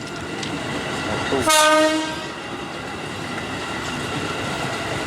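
A train horn sounds one short, loud blast about one and a half seconds in, a single held tone, over the steady rumble of a train running on the track.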